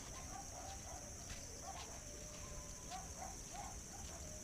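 Faint outdoor ambience with short bird calls repeating every half second or so, over a steady high-pitched hiss.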